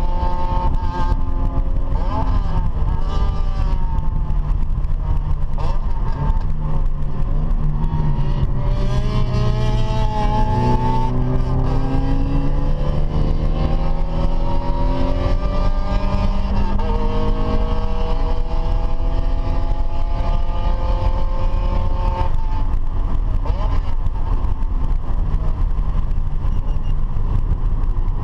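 A car engine accelerating and slowing over and over, its pitch climbing and dropping through the gears, over a constant heavy low rumble of road and wind noise.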